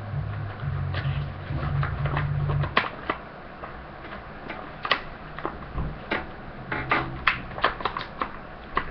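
A sheet of origami paper being folded and creased: irregular crisp crackles and clicks, coming thicker in the second half. A low hum runs under the first three seconds, then stops.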